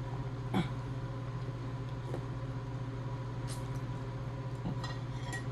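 Steady low hum of background noise with a few brief, soft clicks and mouth sounds of someone eating.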